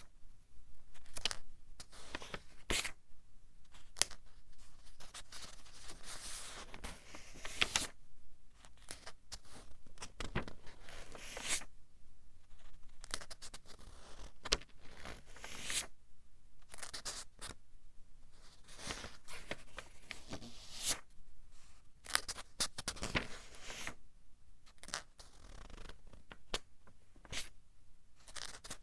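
Pages of a paper book being turned one after another, each turn a short papery swish and flap, coming about every second or two.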